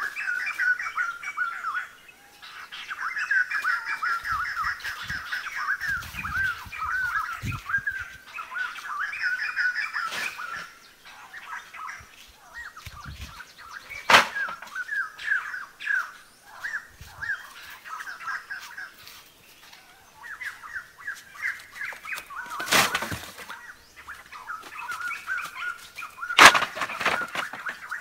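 Birds chirping and chattering in quick, repeated high calls that thin out twice along the way, with three sharp knocks, the loudest one near the end.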